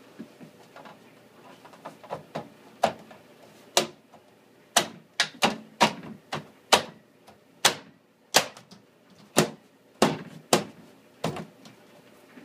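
Plastic door panel of a Whirlpool Gold microwave being snapped back onto the door: a long series of sharp clicks and knocks at irregular intervals as its clips catch one after another.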